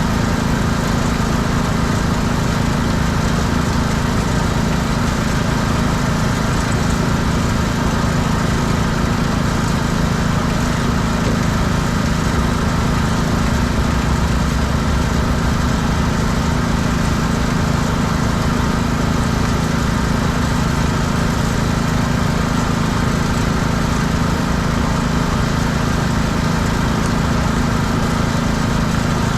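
Small gas engine of a pressure washer running steadily at constant speed.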